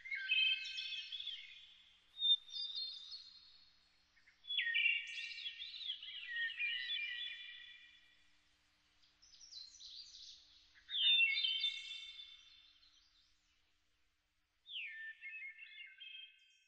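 Bird-like chirping calls in a run of about six short phrases with brief pauses between them. Each phrase is high-pitched with quick glides and trills.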